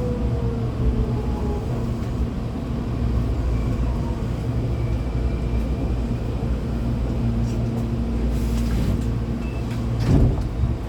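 Hankyu 8200-series train's Toshiba GTO-VVVF inverter whining with a falling pitch as the train brakes into a station, fading out in the first second or two. A steady low hum of the train carries on after it. Near the end come a short hiss and a loud knock.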